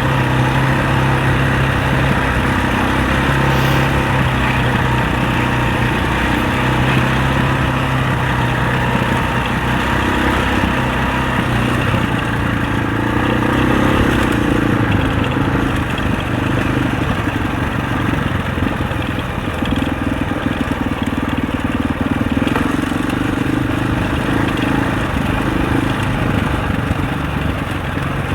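Husaberg 650 enduro dirt bike's single-cylinder four-stroke engine running under way on a trail, its note steady for the first part and then rising and falling with the throttle.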